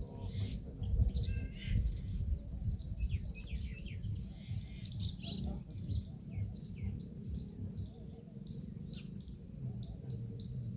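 Small birds chirping and twittering: many short, quick calls scattered through, over a steady low rumble.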